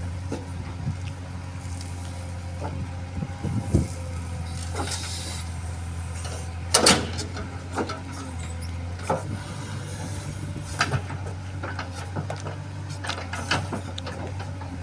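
A heavy diesel engine running steadily with a low hum. Sharp knocks and clanks come every second or two, the loudest about seven seconds in.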